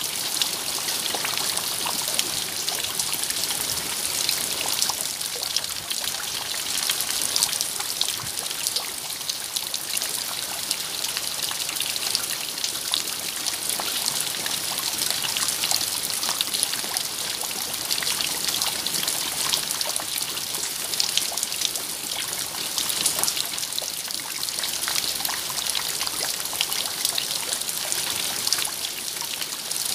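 Steady rain falling, with many separate drops heard as fine ticks within an even hiss.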